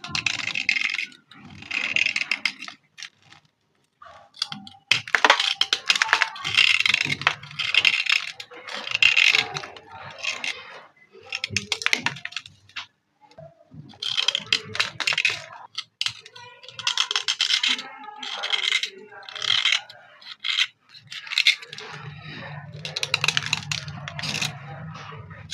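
Dry slate pencils being cleaned: crunchy, gritty scraping and clinking in repeated bursts of a second or so, with brief pauses between them. A low steady hum comes in near the end.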